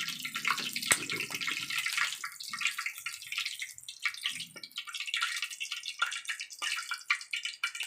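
Cornstarch-coated chicken frying in hot oil: a steady sizzle with many irregular crackles and pops.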